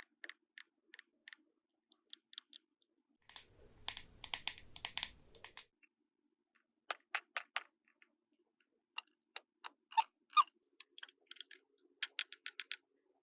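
Small hard clicks and taps of plastic toy pieces being handled and set down, in irregular runs, with a stretch of rustling a few seconds in.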